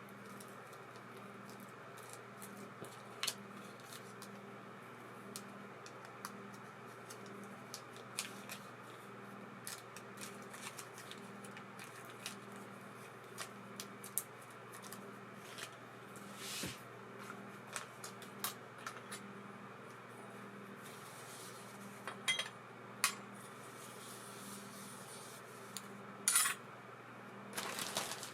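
Light metallic clicks and taps from small metal reel parts being handled and worked on, scattered irregularly, with a few louder clattering clusters in the second half, over a steady low hum.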